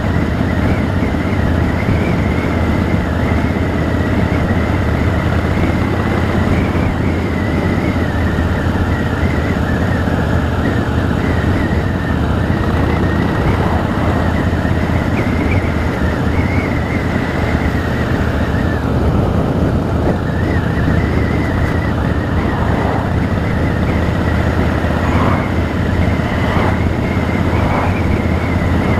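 Harley-Davidson Rocker C's V-twin engine running steadily while the motorcycle is ridden, at an even, loud level.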